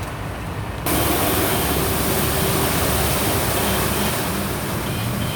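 Heavy rain falling in a steady hiss that comes in abruptly, much louder, about a second in, over a low vehicle engine rumble.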